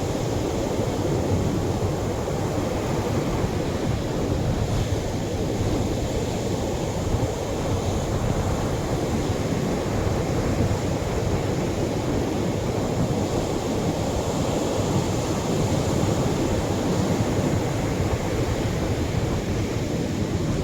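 Atlantic surf washing on a sandy shore: a steady, even rush of wave noise, heaviest in the low range, with no single wave crash standing out.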